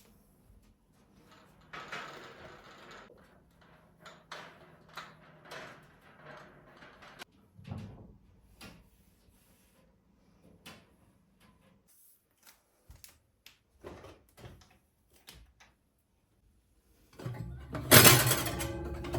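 Household handling sounds: a scrape, a run of knocks and clicks, and a low thump, then a loud clatter with a ringing tail near the end.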